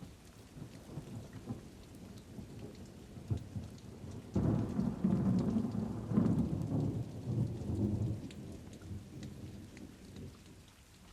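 Thunderstorm: thunder rumbling low over steady rain, swelling louder about halfway through and then fading.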